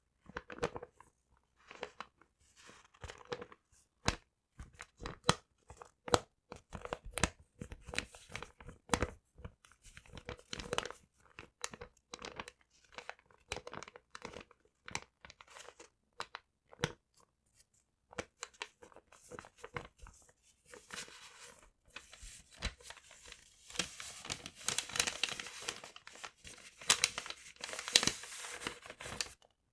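Paper being crumpled and torn close to the microphone: a stream of sharp crackles and crinkles that thickens into a denser, louder rustle about two-thirds of the way through.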